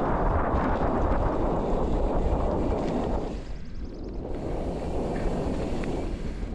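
Wind buffeting the microphone, a loud, rumbling rush that drops away briefly about three seconds in, then picks up again.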